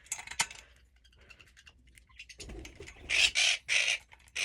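Pet parrot squawking: four short, harsh calls in quick succession in the last second and a half. A few light clicks come at the start.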